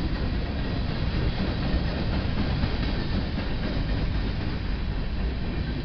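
Covered hopper cars of a freight train rolling past: a steady rumble of steel wheels on rail.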